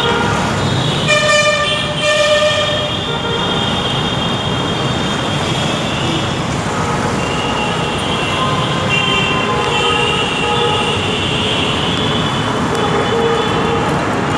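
Road traffic noise with horns tooting on and off, one held horn note the strongest about a second in.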